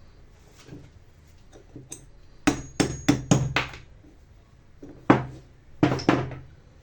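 Hammer tapping on the metal parts of a Black+Decker 7750 angle grinder: five quick, sharp knocks with a short ring, a pause, then three more.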